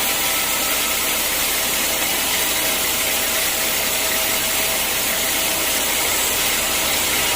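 Sawmill machinery running steadily, an even hissing machine noise with no breaks.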